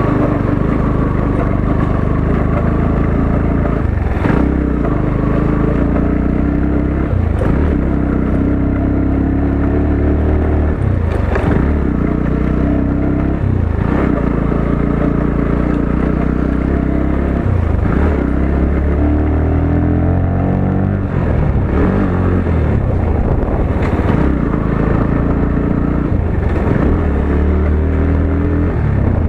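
Motorcycle engine running under load. Its pitch rises and drops again every few seconds as the throttle opens and the gears change.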